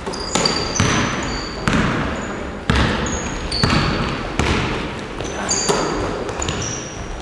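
Basketballs bouncing on a gym floor: irregular echoing thuds, roughly one a second, mixed with short high squeaks of sneakers on the court.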